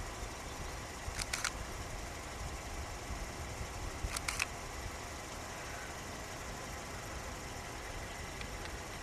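Car engine idling, a steady low rumble, with two short clusters of sharp clicks about a second in and about four seconds in.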